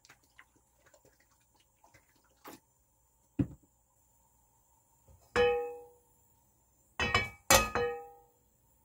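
Frying pan clanking against the metal grate of a gas stove: a soft knock, then a ringing clank about five seconds in and two more close together near the end, each ringing briefly as it dies away.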